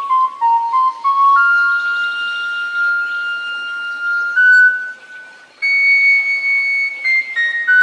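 Background music led by a solo flute playing a slow melody of long held notes, with a short break about five seconds in.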